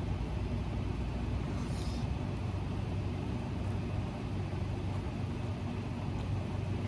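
Steady low hum with no speech, like a motor or appliance running.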